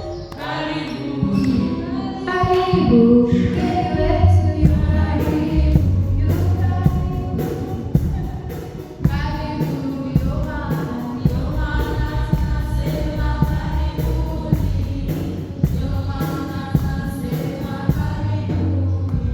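Church congregation and choir singing a gospel welcome song over a steady beat.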